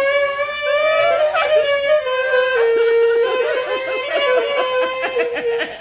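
Music: a melody on a wind instrument, held notes stepping from pitch to pitch.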